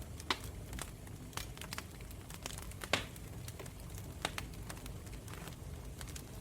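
Wood campfire crackling: irregular sharp pops and snaps, the loudest about three seconds in, over a low steady rumble.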